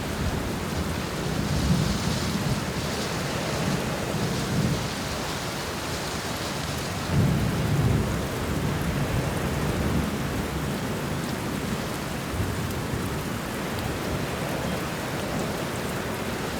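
Steady heavy rain with low, rolling thunder rumbles swelling and fading, one stronger roll about seven seconds in.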